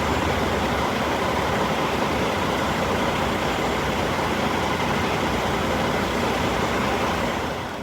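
Semi-truck running, a steady even rumble and road noise with no distinct tones, which drops away abruptly near the end.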